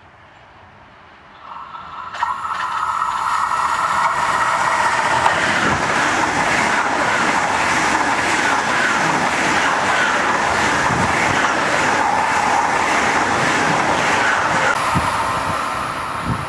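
ICE high-speed electric train passing through the station at speed: its noise comes up about a second and a half in, stays a loud, steady rush of wheels on rail and air, and begins to ease off near the end.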